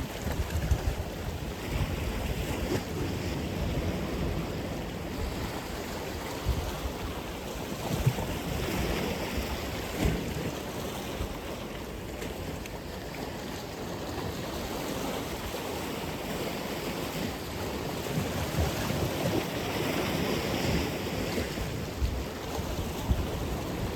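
Atlantic Ocean waves breaking and washing on the shore in a steady surf, rising and falling gently, with wind buffeting the microphone.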